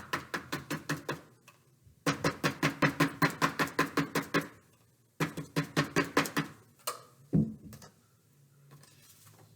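Rapid tapping of a pine-needle brush dabbed onto paper to make paint specks, about six taps a second in three runs separated by short pauses. A single louder thump about seven seconds in.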